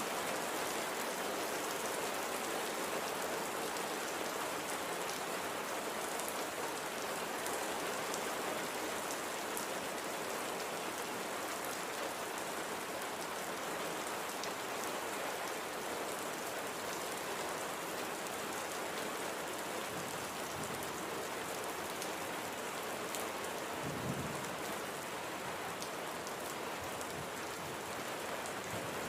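Light, gentle rain falling in a steady, even patter. Late on there is one brief low thump.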